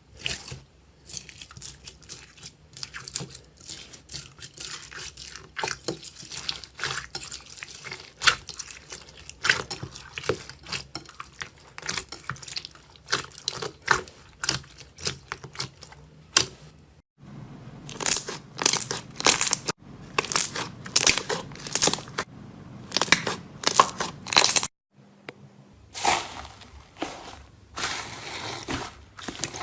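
Slime being handled close to the microphone, with dense crackling, crunching and sticky popping clicks. The sound changes at two cuts, about 17 and 25 seconds in, the middle stretch the busiest and sharpest.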